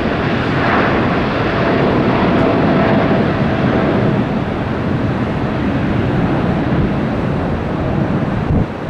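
Jet airliner's engines passing by, a steady loud noise that peaks about three seconds in, with a faint whine in the first few seconds.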